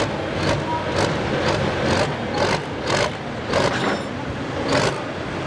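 A pulling tractor's diesel engine running, with sharp irregular cracks a few times a second.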